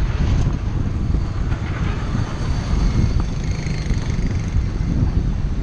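Wind buffeting the microphone of a moving bicycle: a steady low rumble.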